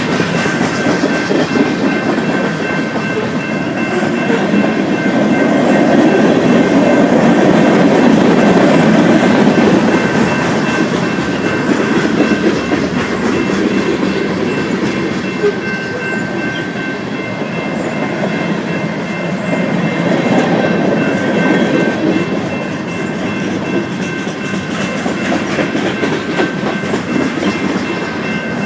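Train cars rolling steadily past on the rails with a clickety-clack of wheels over the track, swelling and easing slightly, with a faint steady high whine over the rumble.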